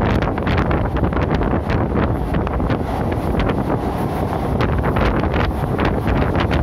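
Wind buffeting the microphone at the open door of a fast-moving local passenger train, over the train's steady running noise, with irregular sharp clicks and clatter from the wheels on the track.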